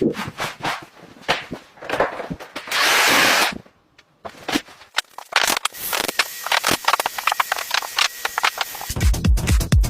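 Building work: scattered knocks and clicks, a hiss lasting under a second about three seconds in, then busy tapping and scraping. Electronic music with a heavy beat comes in near the end.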